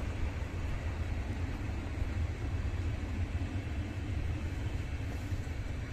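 Railway coaches rolling past and drawing away: a steady low rumble of wheels on the track.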